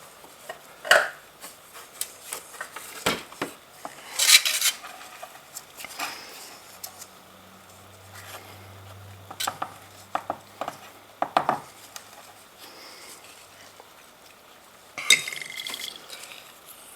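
Scattered metallic clinks, knocks and short rattles as the old spin-on oil filter and hand tools are handled during an oil filter change on a 2006 Kawasaki ZX-10R.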